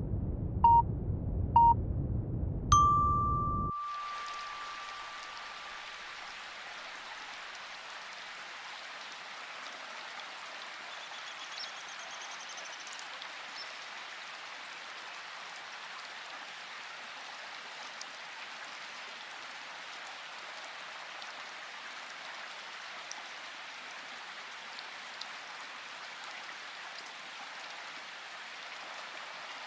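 A Pomodoro timer alarm, two short beeps and then a longer, higher chime, marking the end of a 25-minute study block. The low brown noise cuts off suddenly about four seconds in and gives way to a steady rain-like hiss, with a few faint ticks.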